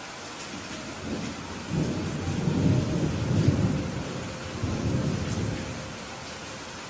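Steady rain falling with a roll of thunder that builds about a second in, rumbles loudest in the middle and fades away before the end.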